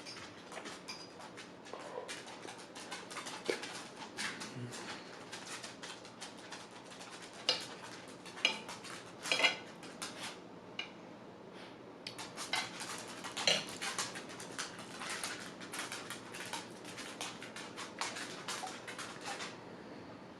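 Cutlery clinking and scraping against a plate in many quick, irregular strokes as food is eaten off it, with a short pause a little past halfway.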